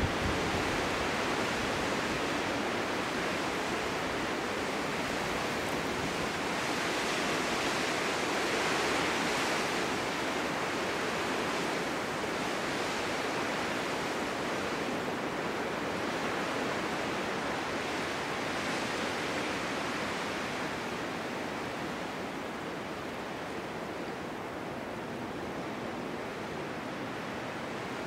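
Snowstorm wind blowing, a steady rushing noise that swells and eases in slow gusts, strongest about a third of the way in and dropping slightly near the end.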